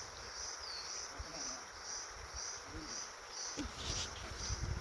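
Crickets chirping in a steady rhythm, about two high chirps a second, over a fainter continuous high insect drone. A few low thuds come in the second half.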